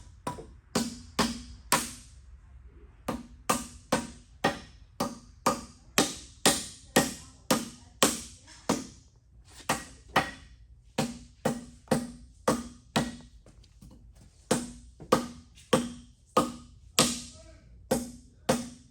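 A hammer striking metal over and over, about two blows a second with short pauses between runs, each blow ringing briefly.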